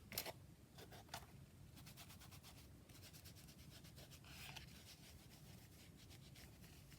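Faint, quick rubbing strokes of an ink applicator worked over paper, blending ink into the page.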